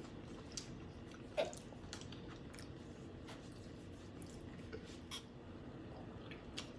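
Quiet eating of a saucy seafood boil: scattered soft clicks and wet squishes of chewing and handling food, with one sharper click about a second and a half in.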